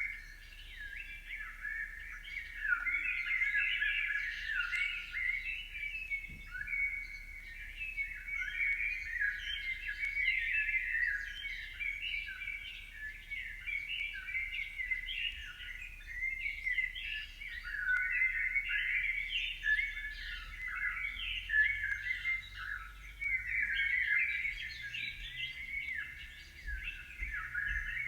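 Many small birds chirping at once, a steady chorus of overlapping short, high calls.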